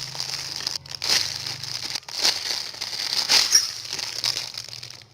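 Plastic crinkling and rustling from a squishy toy being handled, in repeated bursts about once a second.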